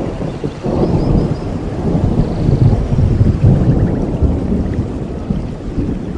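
Rolling thunder over steady tropical rain: a low rumble swells about a second in and slowly eases toward the end, with a few faint bird chirps above.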